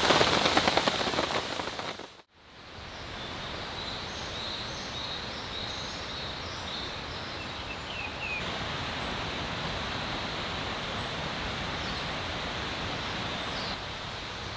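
Rain falling hard, fading and cutting out about two seconds in. Then a steady soft hiss of wet outdoor ambience with a few faint, high bird chirps.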